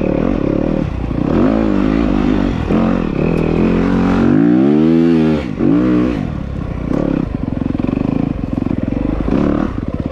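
Dirt bike engine revving up and down under throttle, with one long climb and drop in pitch about four to five seconds in.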